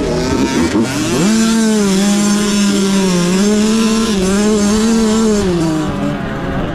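Small motocross bike engine revved up sharply about a second in, then held at high revs with slight wavers before easing off near the end.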